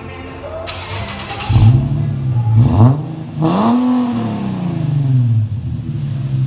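Infiniti G37's 3.7-litre V6 with a muffler delete, idling and then revved three times: two short blips, then a longer, higher rev that falls back to idle. The exhaust is left without its muffler.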